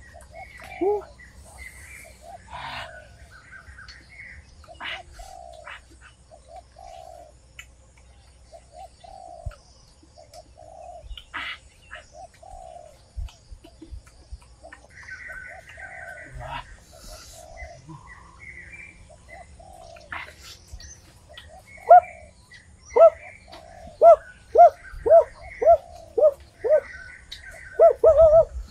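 Forest birds calling: repeated short low notes with higher chirps in between. From about three-quarters of the way through, a louder run of quick falling notes comes about two a second.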